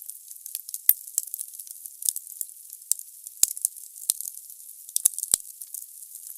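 Wood burning in a fireplace: a steady high hiss of fire with dense crackling from the logs. A few sharper pops stand out, about a second in, about three and a half seconds in, and twice near five seconds.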